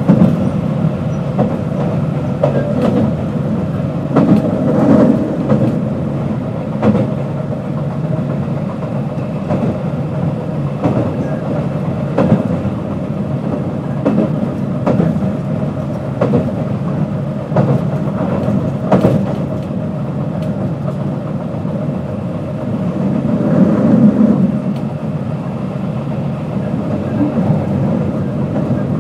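JR West 221 series electric train (field-added excitation control) running between stations, heard aboard: a steady rumble of wheels on the track with irregular clacks over rail joints every one to three seconds.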